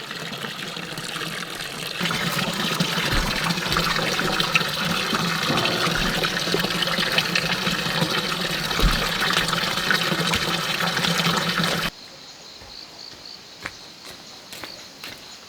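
Running, splashing water, loud and steady for about twelve seconds, getting louder about two seconds in. It stops abruptly, leaving a quiet background of insects chirping.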